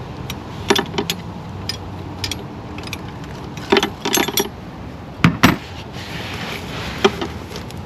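Hand wrench clinking on a plenum bolt and the surrounding engine metal as the bolt is loosened: a scatter of sharp metallic clicks and taps, loudest about five seconds in.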